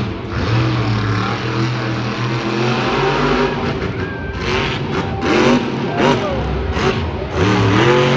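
Monster truck engine running loud, held fairly steady for a few seconds and then revved up and down several times in the second half.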